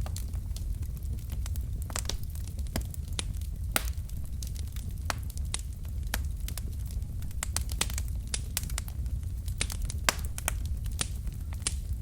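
Wood fire of burning logs in a fireplace crackling, with irregular sharp pops and snaps, several a second, over a steady low rumble of the flames.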